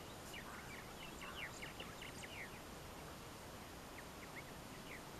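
Faint outdoor ambience with birds chirping: quick series of short, falling notes, in two clusters, one in the first half and another around four seconds in, over a low steady background rumble.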